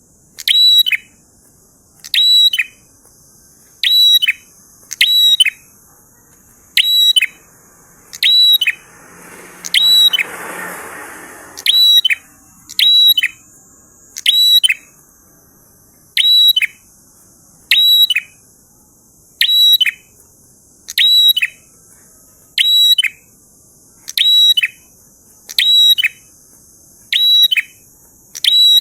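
Prenjak (prinia) singing steadily: a short, sharp, high call repeated about every second and a half, around eighteen times. A brief whooshing noise swells and fades about ten seconds in.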